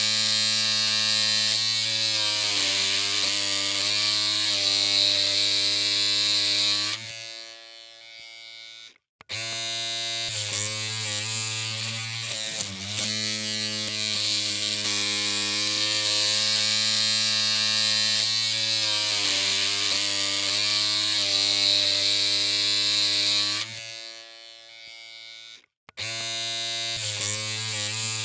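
Electric hair clippers humming with a steady buzz and hiss. The hum drops away about seven seconds in, goes silent briefly and starts again, and does the same once more near the end.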